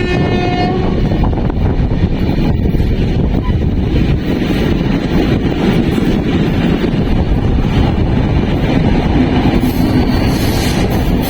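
Electric-hauled passenger express train running along the track, a loud, steady rumble of wheels and carriages.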